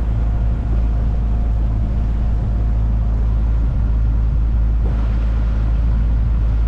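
Outboard motor running steadily, pushing an inflatable boat along, with a constant low hum.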